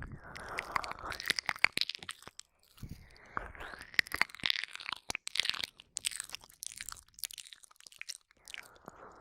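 Close-up ASMR mouth sounds into a binaural microphone: wet licking, lip smacks and tongue clicks coming in quick, irregular runs, with softer stretches of breathy noise in between.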